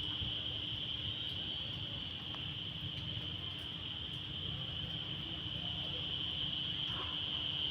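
A steady, high-pitched insect chorus, an unbroken shrill drone, over a low rumble.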